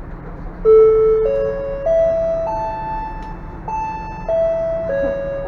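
Ferry public-address chime: eight clean bell-like notes, four stepping up and four stepping back down, the signal that an onboard announcement is about to begin. A steady low hum of the ship runs underneath.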